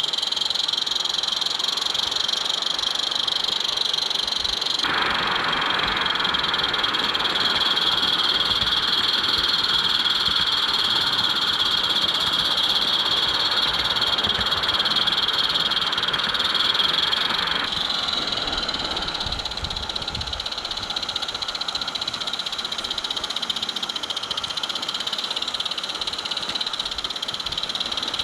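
Steady high-pitched chorus of calling frogs, its tone shifting abruptly about five seconds in and again near eighteen seconds.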